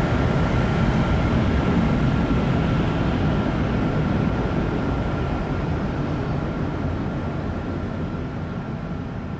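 Jet airliner engines, a loud steady rush with a thin high whine, slowly fading away.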